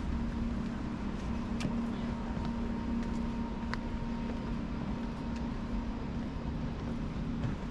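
Steady mechanical hum over a low rumble, holding one even pitch, with a few faint ticks.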